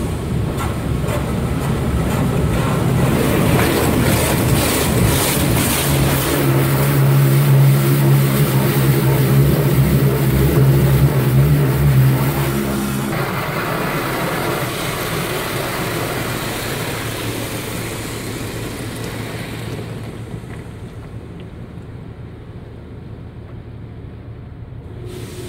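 Automated touchless car wash running: a steady rush of high-pressure water spray with a machine hum under it that cuts off suddenly about halfway through; the rushing then eases off gradually toward the end.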